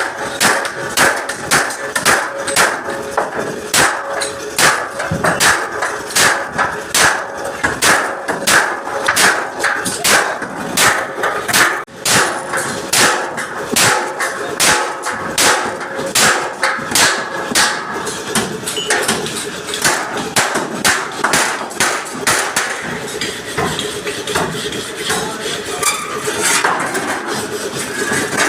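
Hammer beating dents out of a truck's front bumper: a steady run of sharp blows about two a second, growing fainter and more spaced out after about eighteen seconds.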